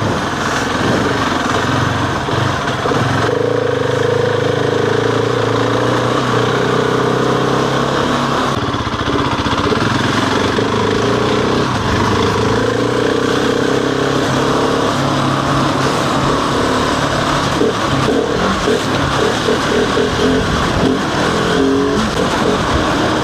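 Husqvarna 701's single-cylinder engine running steadily while riding, with wind rush over it. A little past the middle the engine note turns uneven and pulsing for a few seconds before settling again.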